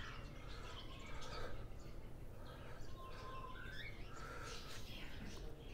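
Birds chirping faintly: scattered short calls, one of them a brief steady whistle about three seconds in.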